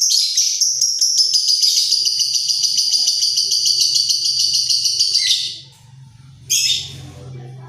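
Lovebird giving a long, rapid chattering trill that cuts off about five seconds in, followed about a second later by one short, sharp call.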